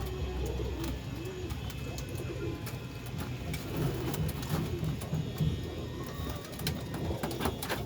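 Domestic pigeons cooing, low and repeated, with scattered light clicks.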